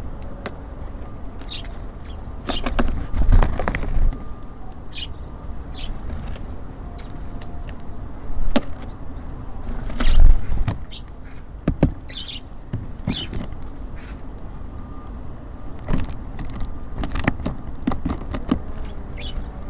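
Small birds at a feeder: irregular sharp taps and knocks from pecking and landing, a few short high chirps, and some wing flutters. A steady low rumble runs underneath.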